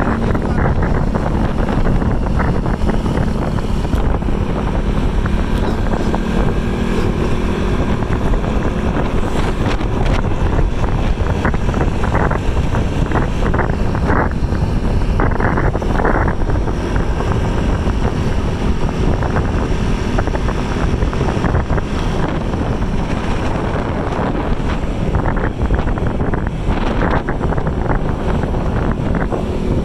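Steady wind buffeting the microphone over vehicle running noise, as when recording from a moving vehicle.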